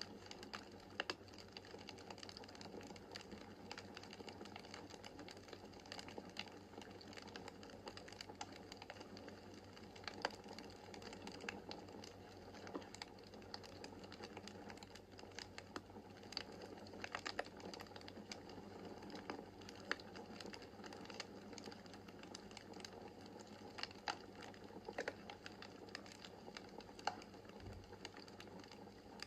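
Wood fire burning in a fireplace: a steady soft hiss of flames broken by frequent, irregular sharp crackles and pops from the burning logs.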